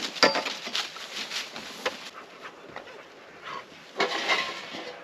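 A dog close by making a series of short, irregular noisy sounds, the loudest a sharp one just after the start.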